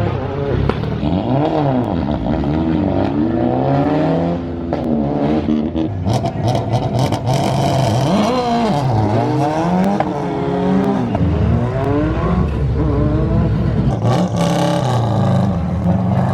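Rally car engine revving hard as it launches and accelerates, its pitch climbing and dropping over and over through the gear changes, with a few sharp crackles mixed in.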